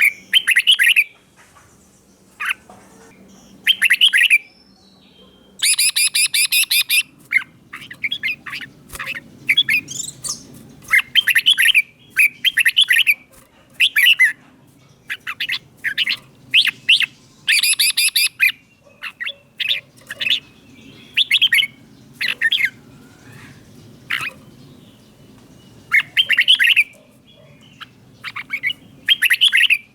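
Red-whiskered bulbul singing short, bright whistled phrases over and over, every second or so, with some harsher, buzzier phrases among them. This is the 'double' (เบิ้ล) song style that Thai bulbul keepers prize.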